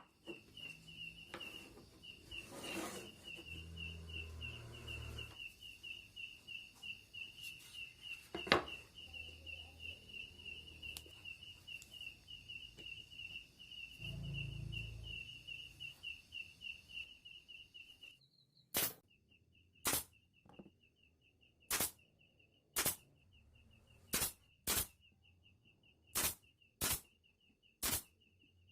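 A high, rapidly pulsing trill carries on steadily with scattered knocks and handling noise. In the last third the trill fades and sharp taps come about once a second, often in pairs.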